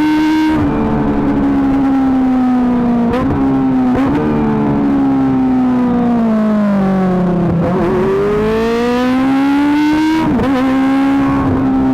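Kawasaki ZX-25R four-cylinder engine through an Akrapovic GP titanium exhaust, under way. Its note sinks slowly with a few short breaks, then climbs again from about two-thirds of the way through, with another short break near the end.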